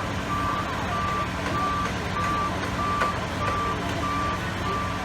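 Truck reversing alarm beeping steadily, about one and a half beeps a second, over the low running of a heavy vehicle's engine.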